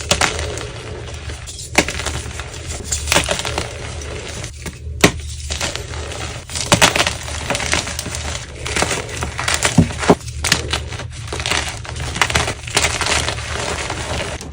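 Blocks of dyed gym chalk being crushed by hand, a dense run of irregular crunches and crumbles with sharp crackles and snaps throughout.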